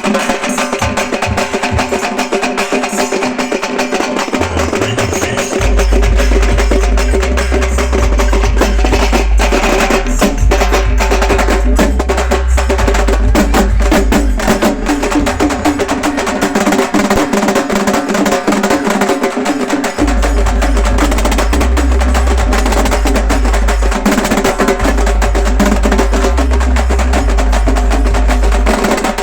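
A halgi group playing: fast, dense stick strokes on the frame drums with steady held tones over them. A deep bass comes in about five seconds in and carries on under the drumming.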